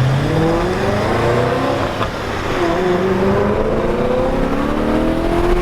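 Car engine accelerating: its pitch climbs steadily, drops at a gear change about two and a half seconds in, then climbs again.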